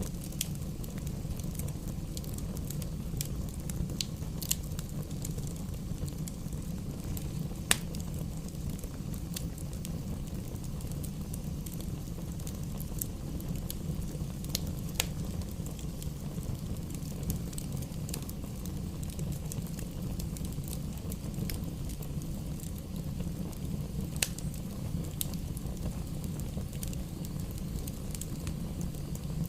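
Fire burning in a fireplace: a steady low rumble of flames with scattered crackles and sharp pops, the loudest pop about eight seconds in.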